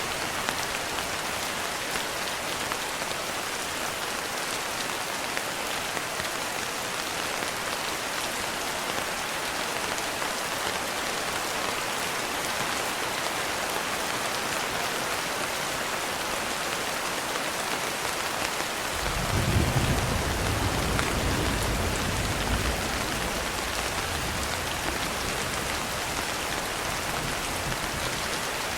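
Steady heavy rain hiss, with a low rumble of thunder that swells about two-thirds of the way through and then trails off.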